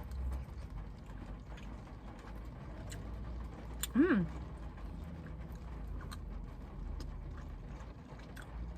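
Steady low outdoor rumble with scattered light clicks and taps, and a short hum about four seconds in that rises and then falls in pitch.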